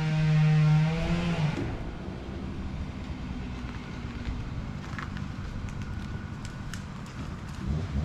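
An engine holding a steady high note eases off about a second and a half in, dropping to a low rumble with a few light ticks, then revs up again near the end.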